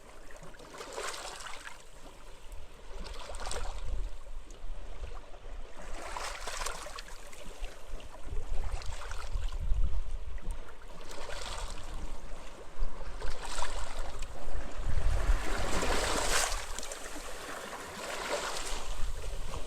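Small waves washing onto a beach, one swell of surf every two to three seconds, with gusts of wind rumbling on the microphone.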